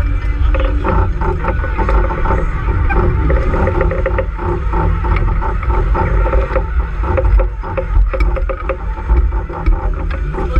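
Sailboat under way: water rushing and slapping along the hull, with wind buffeting the microphone as a heavy low rumble.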